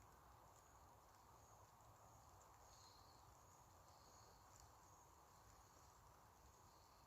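Near silence: a faint, steady background hiss with a few faint, short high-pitched chirps.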